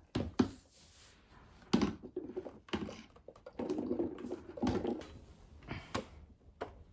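Handling of a Dreame D10 robot vacuum's plastic dustbin as it is put back in: a handful of sharp plastic clicks and knocks spread over several seconds, with scraping between them.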